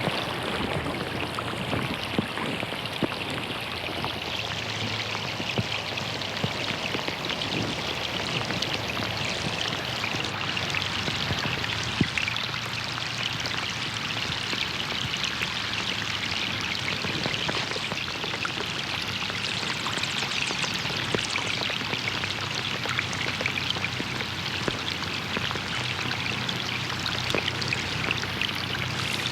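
Rain falling on a pond: a steady hiss of rain on the water with many separate drops splashing, a few of them louder.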